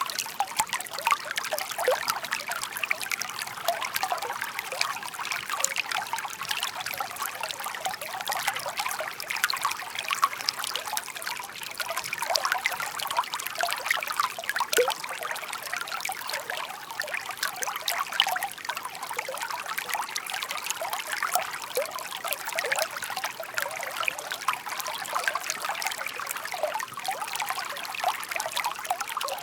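A shallow babbling brook: water trickling and burbling over stones in a steady, busy patter of small splashes.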